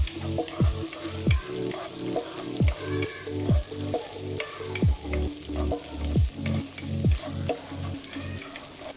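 Whole shallots with curry leaves and green chilies sizzling in hot oil as they fry to a light golden brown, stirred with a wooden spatula. Under it runs background music with a steady beat and deep bass notes that drop in pitch.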